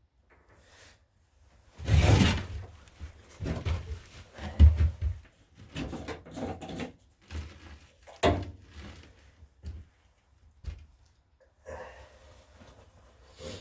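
Irregular knocks, clunks and rattles of hands and tools working on a lawn tractor's parts, with a sharp knock a little after eight seconds.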